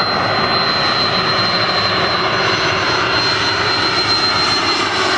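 Airbus A330 jet engines running: a steady roar with a thin, high whine, and a second, higher whine joining near the end.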